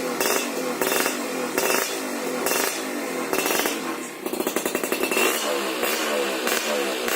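Yamaha F1ZR two-stroke single-cylinder engine revved through a racing exhaust. It runs in short throttle blips about once a second, then in quicker rising and falling revs from about four seconds in.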